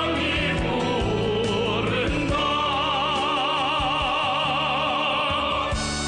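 A song sung in an operatic style with a wide vibrato over instrumental backing. The singer holds one long note from about two seconds in until near the end, where the instruments carry on alone.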